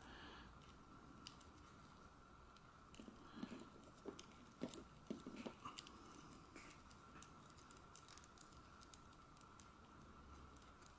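Faint scattered clicks and taps of a plastic action figure's joints and parts being handled and posed, with a faint steady hum underneath.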